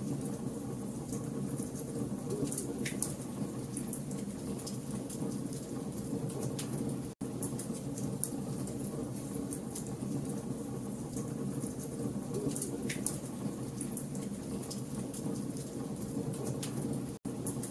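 Campfire of burning logs crackling, with sharp pops and snaps over a steady low rumble of flame. The sound cuts out completely for an instant twice.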